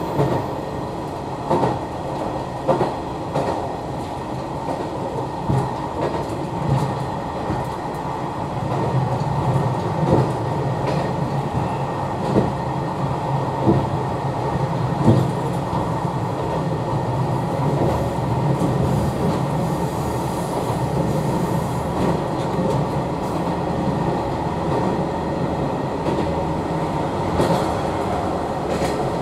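Train running along the track, heard from inside the cab: a steady rumble with irregular clicks and knocks from the wheels over rail joints.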